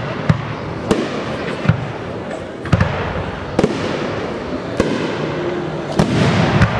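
Fireworks display: a string of sharp bangs, roughly one a second, over a steady crackle of bursting effects.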